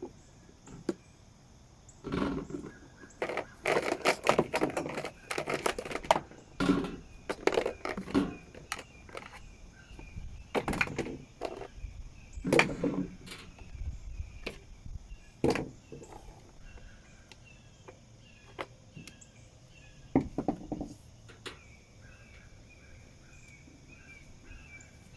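Toy animal figures knocking and clattering as they are handled, in a run of irregular sharp knocks, with occasional soft voice sounds.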